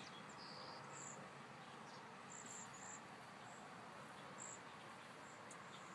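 Faint, thin, high-pitched chirps from small birds, a handful of short calls at irregular moments over a quiet background hiss.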